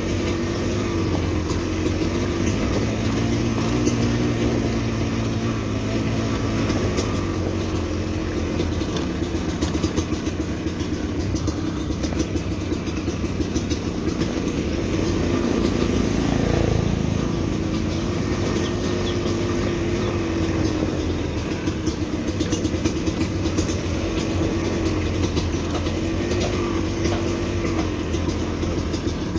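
Motorcycle engine running as the bike is ridden, its pitch rising and falling with the throttle, with frequent sharp clicks and rattles over it and a brief swell in the sound about two-thirds of the way in.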